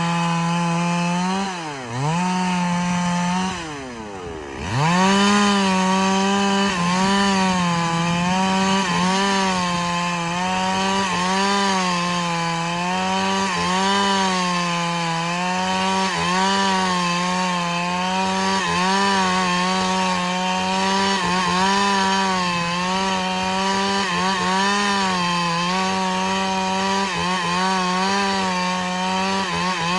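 Chainsaw cutting through a large log, its engine held at high speed with the pitch wavering as the chain bites. Twice in the first few seconds the engine drops in pitch and level as the throttle eases, then it revs back up about four to five seconds in and runs on under load.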